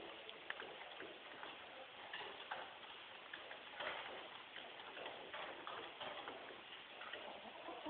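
Red Sussex pullets pecking, making irregular light taps and ticks over a steady background hiss.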